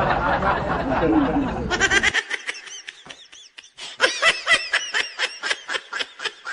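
High-pitched laughter in quick, repeated giggles, starting after a loud noisy stretch cuts off about two seconds in.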